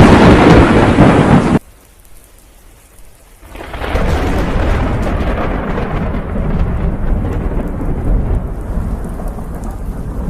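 A very loud thunderclap that stops abruptly about a second and a half in. After a short lull, rain and rumbling thunder set in and carry on steadily.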